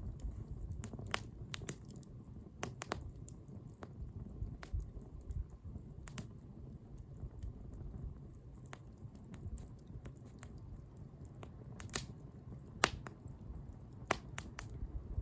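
Wood bonfire crackling: irregular sharp pops and snaps over a low steady rumble, with a few louder pops near the end.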